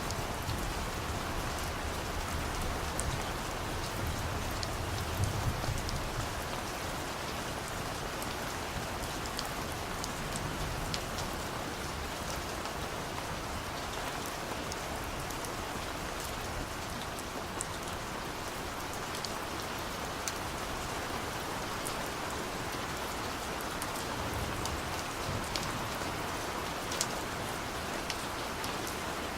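Steady rain with scattered sharp drop ticks. Low rumbles of distant thunder swell in the first few seconds and again later on.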